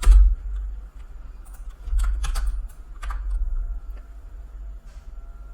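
Computer keyboard keys clicking in a few short clusters, the loudest at the very start and about two seconds in, over a steady low hum.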